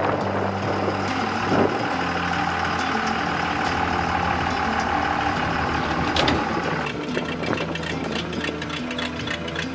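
Diesel truck engine running steadily, with a steady high whine over it that stops about seven seconds in.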